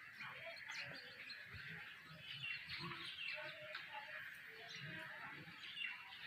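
Songbirds chirping and singing in a dense, continuous chorus of short, high, overlapping calls and trills.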